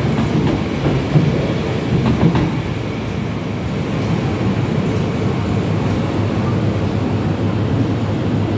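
MTR East Rail line (former KCR) electric train running on the track: a steady rumble with a couple of sharp wheel clicks in the first few seconds.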